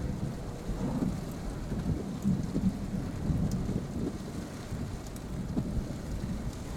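Rain beating on a car with a low, uneven rumble of storm wind or thunder, heard from inside the vehicle.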